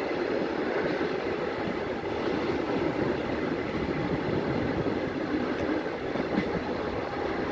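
Steady rolling noise of a moving sleeping car, heard from inside its compartment: the wheels running on the rails, with a faint knock near the end.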